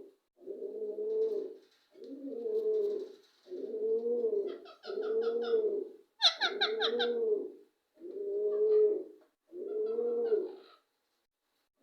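Birds calling: a low, arched cooing note repeated about once a second, joined twice by bursts of rapid, high, stuttering chatter.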